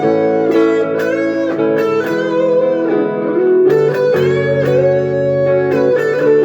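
Band playing an instrumental break, with a lead guitar melody full of string bends over sustained chords and bass.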